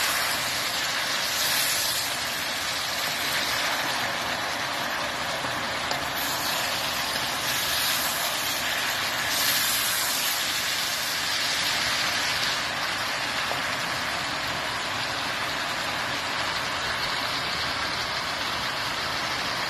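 Chop suey of cabbage, peppers and meat sizzling steadily as it stir-fries in a pan, swelling louder a few times in the first half as a wooden spatula turns it.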